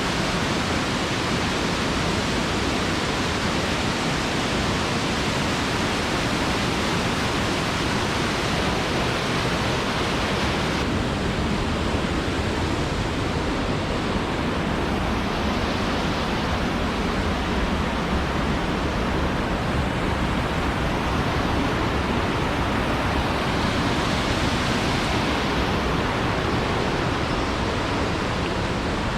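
Silvertip Falls pouring, heard from the base of the waterfall: a steady, loud rushing of falling water. The highest hiss softens a little about a third of the way in.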